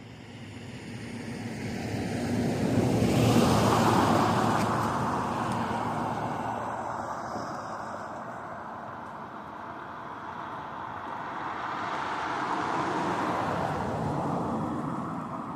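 Two road vehicles passing one after the other, each a broad rushing noise that swells and fades. The first is louder and peaks about four seconds in; the second comes near the end.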